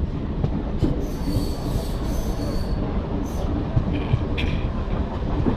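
Mumbai suburban train running along the track, with a steady low rumble of wheels on rails. Thin high-pitched wheel squeals come in about a second in and again near the end.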